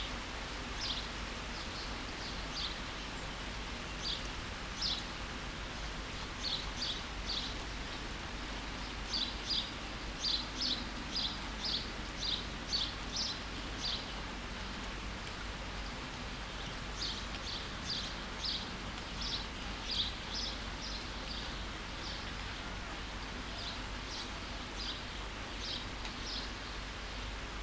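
Steady rain, with a songbird giving short high chirps in quick runs of two or three a second. The chirps pause for a few seconds near the middle.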